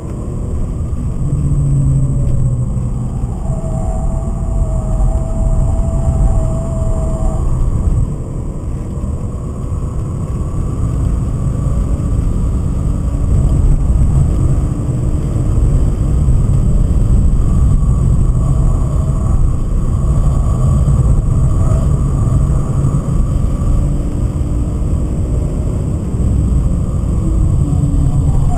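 BMW 528i's 2.8-litre M52B28 straight-six, heard from inside the cabin, running hard at speed with its revs rising and falling over a heavy low rumble. A thin steady tone comes in about four seconds in and lasts about four seconds, and the level dips briefly about eight seconds in.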